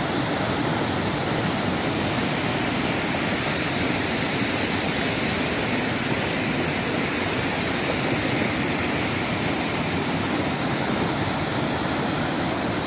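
A swollen mountain stream (nala) rushing steadily, in spate after two days of continuous rain.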